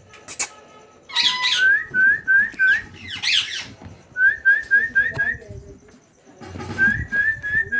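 Indian ringneck parakeet chicks begging while being fed. There are runs of short rising chirps, about four a second, broken by a few loud raspy squawks.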